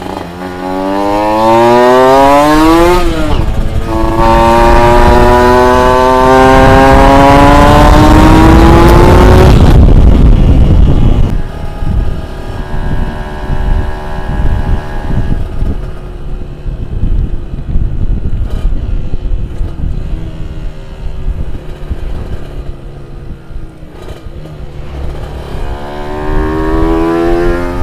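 Two-stroke engine revved hard: a quick rising rev, a brief drop, then a longer climb in pitch held for about six seconds. It falls back to a lower, uneven running, then starts rising again near the end.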